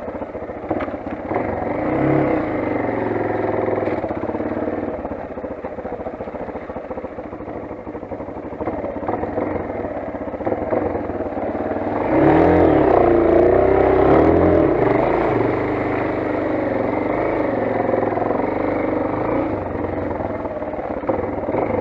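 Motolend XR 250 enduro motorcycle's single-cylinder engine running under way. The revs rise and fall briefly early on, then twice more about halfway through, which is also the loudest part.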